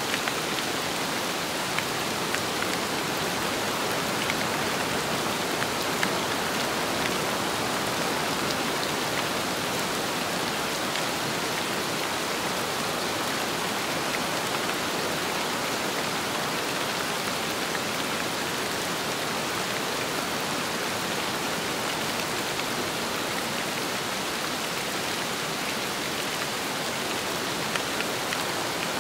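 Steady rain falling on a surface together with wind, an even rushing hiss with scattered faint drop ticks.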